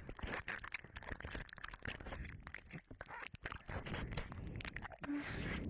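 Close-up licking and wet mouth sounds on the ear of a 3Dio binaural microphone: quick irregular clicks, smacks and wet crackle.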